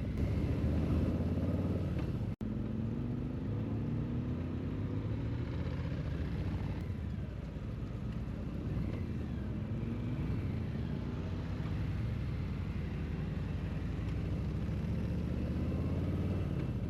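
Motorcycle engine running while riding, its pitch rising and falling as the bike speeds up and slows down.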